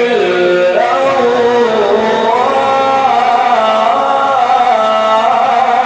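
A man's voice reciting the Quran in a long, drawn-out melodic phrase, holding notes and gliding up and down between them without a break.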